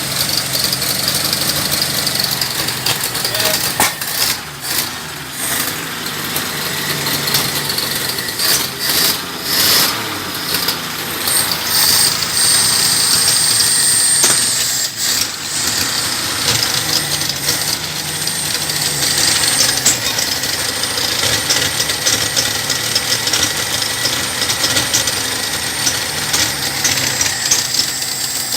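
Revived IKA Tornado inline-six engine with four main bearings running, its level swelling and dipping unevenly in the first half and steadier later.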